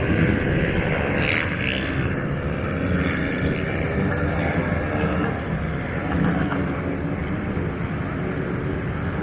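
Motocross motorcycle engines running hard and revving as they race on a sand track, a steady mechanical din with rising and falling pitch.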